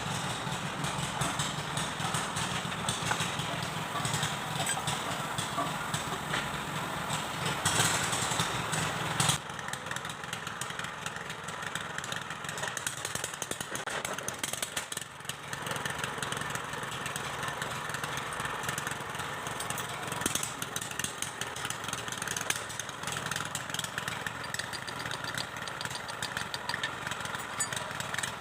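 Kubota V1501 four-cylinder diesel engine running steadily, its rhythm even; about nine seconds in it settles to a slightly quieter, lower-powered running.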